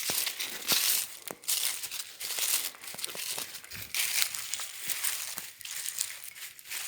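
Footsteps crunching and rustling through dry leaves and brush, a burst of crackling with each step at walking pace.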